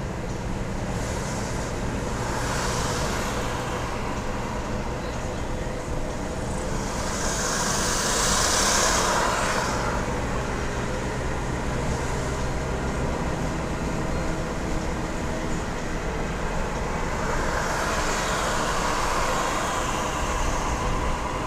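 1982 Jaguar XJ6's 4.2-litre straight-six running steadily on the road, a low engine hum under tyre and road noise. Swells of rushing noise come and go three times, the loudest about eight to nine seconds in.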